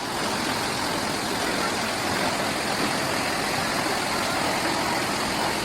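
Waterfall pouring, a steady rush of falling water with no change.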